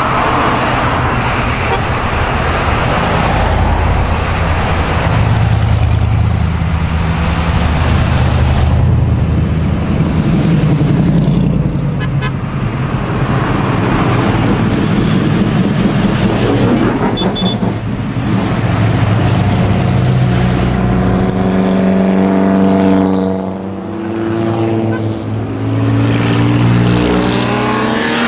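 Vintage race car engines running and moving past, their pitch rising and falling as they rev, with several engines heard at once in the later part and a sharp rev right at the end.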